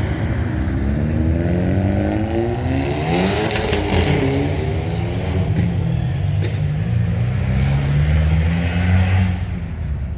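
Car engine revving as it drives past, its pitch climbing for the first few seconds and dropping away as it goes by, followed by a deep engine rumble that builds slightly near the end.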